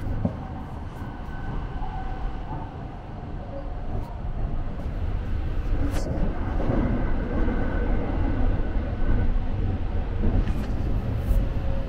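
Running noise of a Sunrise Express sleeper train, a 285 series electric train, heard inside a carriage: a steady low rumble of the wheels on the rails, with a few light clicks.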